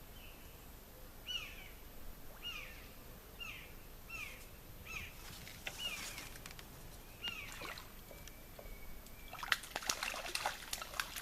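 A bird repeating a short, falling call about once a second for several seconds. Near the end comes a quick cluster of sharp clicks and crackles.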